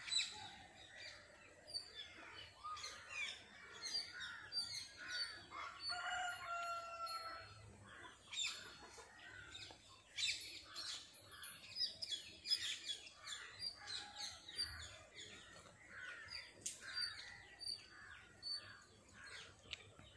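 Birds calling: scattered short chirps throughout, with one longer call that falls slightly in pitch about six seconds in.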